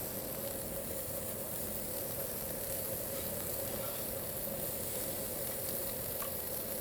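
Pork skirt meat sizzling on a grill over a coal briquette (yeontan) fire, a steady hiss.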